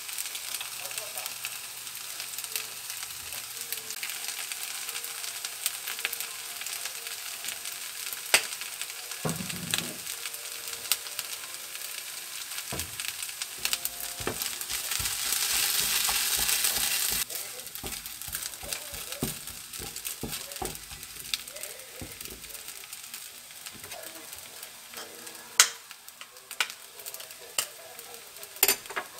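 Vegetable fried rice sizzling in a nonstick frying pan as it is stirred with a silicone spatula, with a few sharp clicks. The sizzle swells louder for a few seconds past the middle, then drops off suddenly.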